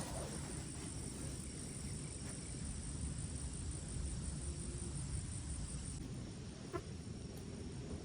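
Crickets chirping steadily in a night-time chorus, a faint high pulsing trill over a low rumbling background noise, with a single small click about seven seconds in.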